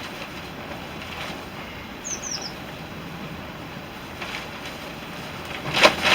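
Steady outdoor wind noise, with a small bird giving three quick falling chirps about two seconds in. Near the end comes a short cluster of sharp snaps, the loudest sounds.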